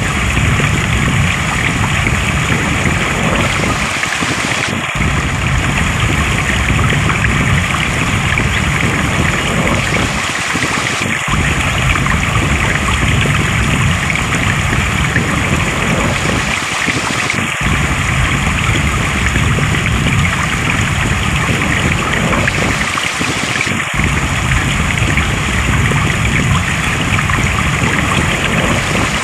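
Water flowing steadily in a stream, a loud even rushing. The same short stretch repeats about every six and a half seconds, with a brief dip in the low rumble at each seam.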